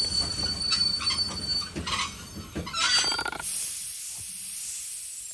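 Train sound: a steady high squeal with clatter and a low rumble for about three and a half seconds, then a long hiss that slowly fades.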